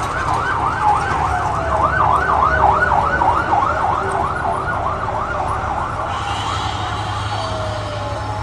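Fire engine siren in a rapid yelp, its pitch swinging up and down about three to four times a second. A second, lower siren tone slides down twice, over the truck's low engine rumble.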